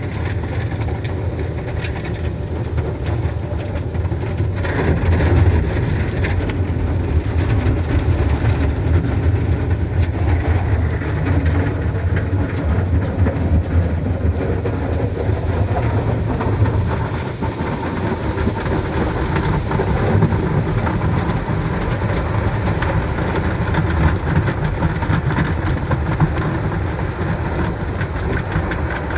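Automatic car wash machinery running around the car: a steady, heavy noise with a strong low hum, growing slightly louder about five seconds in.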